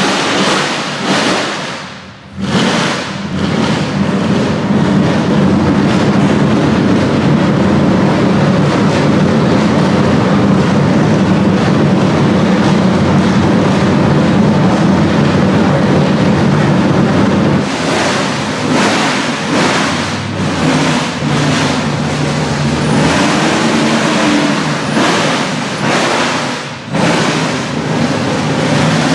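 Brill Steel 720 hp V8 Nissan Silvia idling loudly and steadily. After about eighteen seconds it gives a series of short throttle revs.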